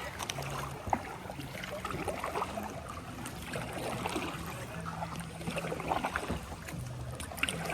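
Water splashing and lapping around a kayak, with scattered small splashes and knocks, over the faint, steady bass notes of party music carrying across the river.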